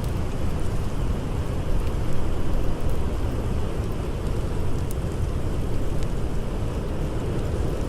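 Blizzard wind blowing in a steady low rumble, with a few faint crackles of a campfire.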